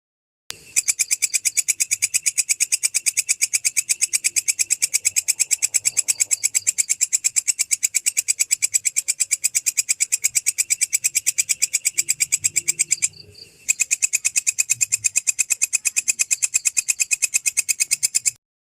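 Singing insect calling in a fast, even train of clicking pulses, high-pitched, with a short break about 13 seconds in and a sudden stop near the end.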